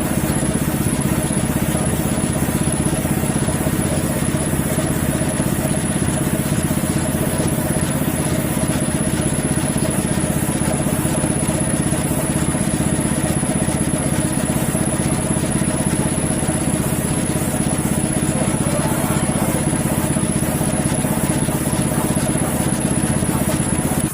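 Air compressor running steadily for spray painting, a loud, unbroken motor drone.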